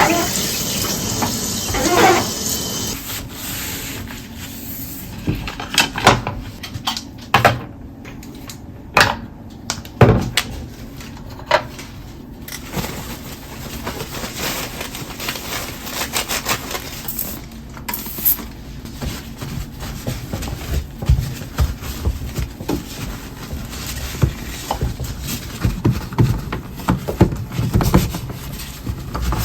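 Household handling sounds: irregular clinks and knocks of dishes and utensils being set down and moved, after running water that stops about three seconds in.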